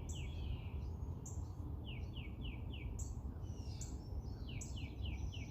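Songbirds singing at dawn: a phrase of a short high note followed by three or four quick falling notes, repeated about three times, over a steady low rumble.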